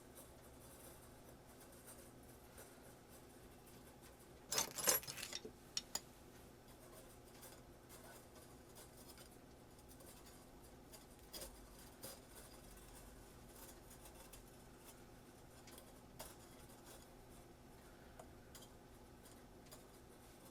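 A brief burst of light clicking and rattling of small hard objects being handled, starting about four and a half seconds in and lasting about a second and a half, then a few isolated soft taps, over a faint steady hum.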